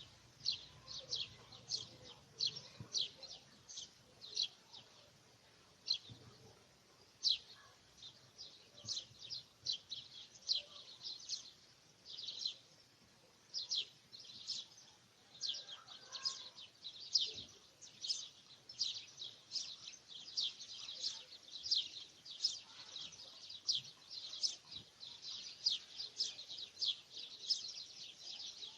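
Birds chirping: a steady run of short, high chirps, two or three a second.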